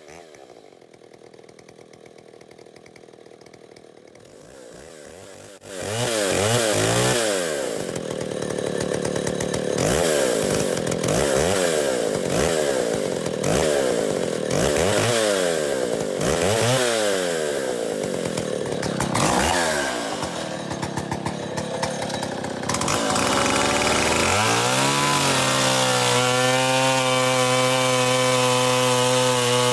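Big-bore Stihl Contra Lightning two-stroke chainsaw, enlarged to 137 cc. It is quieter at first, then about six seconds in it gets suddenly loud and is revved up and down again and again, about once a second. Near the end it settles into a steady high-speed run.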